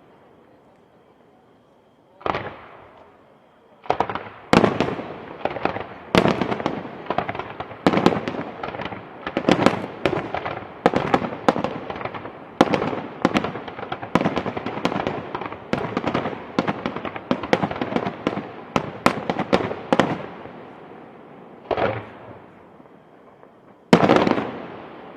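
Fireworks display: a single aerial shell burst, then a rapid barrage of bangs and crackles lasting about sixteen seconds, then two more single bursts near the end.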